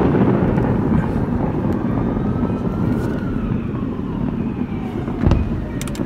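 Fireworks going off at a distance: one sharp bang about five seconds in and a couple of faint crackles just after it. Underneath is a steady low rumble, with faint tones gliding up and then down.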